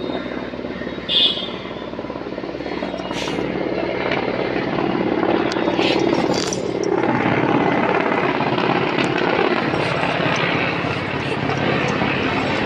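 Mil Mi-17 helicopter running, its main rotor making a steady fast chop over the whine of its twin turboshaft engines, growing louder over the first half. A few brief higher sounds cut in over it, the loudest about a second in.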